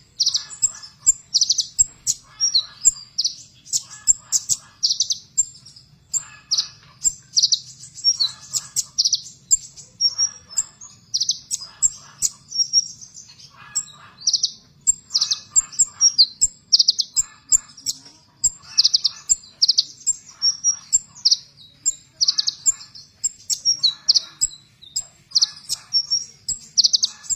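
Kolibri ninja sunbird singing harsh, rapid 'tembakan' bursts: short, high-pitched stuttering phrases repeated about once a second.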